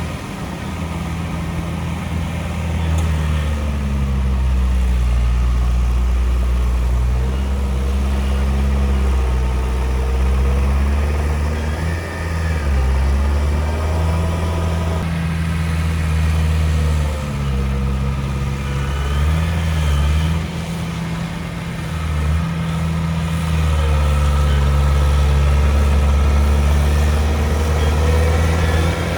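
Komatsu D31P bulldozer's diesel engine working under changing load, its deep drone dipping and picking up again several times. Faint high squeals rise and fall over it.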